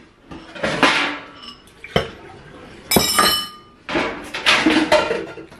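Glassware and dishes being handled and set down: a series of sharp clinks and knocks about once a second, the one about three seconds in ringing briefly.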